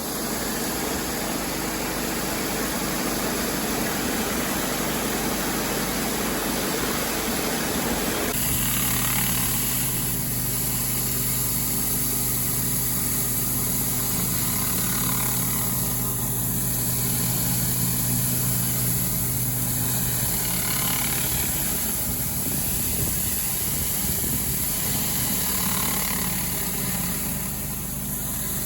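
Gas engine of a Mad Max 9 GPM pressure washer running steadily under a constant hiss. Its tone changes abruptly about eight seconds in.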